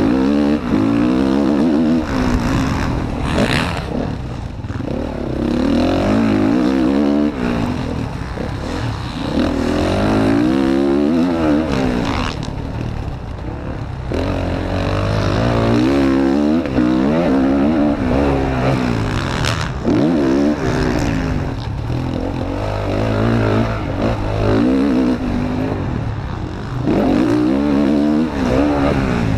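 Motocross bike's engine heard from an onboard camera, revving up and dropping back over and over as it accelerates, shifts and slows around the track, with rushing noise on the microphone. A few sharp knocks come through during the ride.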